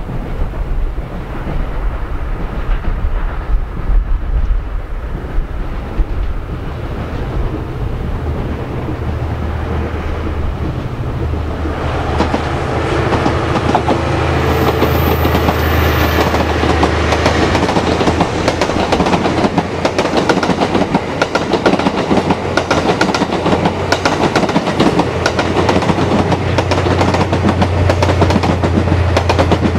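JR East E001 'Train Suite Shiki-shima' luxury train passing close by. A low rumble as it approaches, then from about twelve seconds in the wheels clatter over the rail joints above a steady low hum.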